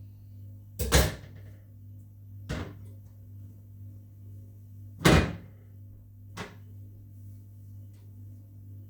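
Four sharp household knocks or bangs, the first and third loudest, over a steady low hum.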